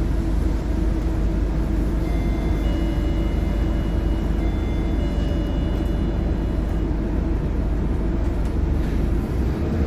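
Scania K230UB bus's Scania DC9 five-cylinder diesel running steadily with a deep rumble. A faint high steady whine of several tones comes in about two seconds in and fades out again after five to seven seconds.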